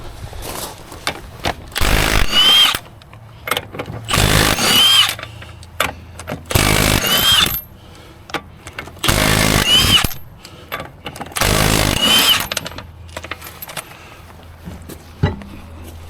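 Cordless impact wrench run in five bursts of about a second each, evenly spaced, each ending in a short high whine: typical of zipping off a wheel's five lug nuts.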